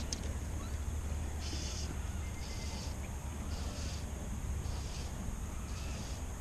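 Lakeside outdoor ambience at dusk: a steady low rumble under a high-pitched buzzing call that pulses on and off about once a second.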